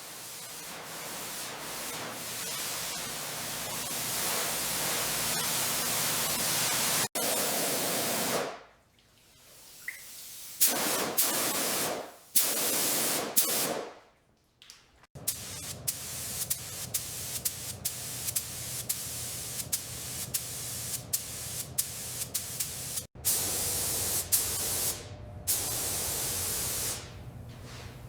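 Loud hissing spray in long runs that stop and start abruptly, with sharp clicks and ticks through the later part.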